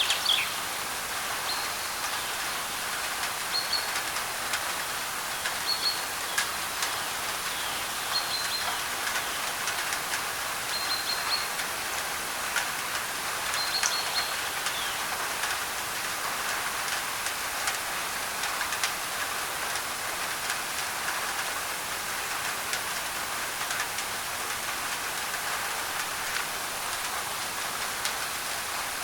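Steady rain on a thin tin roof under a layer of white noise, with scattered drop ticks. A bird repeats a short high call every two to three seconds through the first half.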